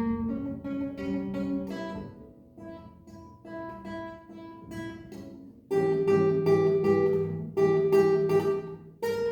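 A solo plucked string instrument, guitar-like, playing a piece of music: loud chords, then a quieter, sparser passage, then loud strummed chords returning suddenly about two-thirds of the way in.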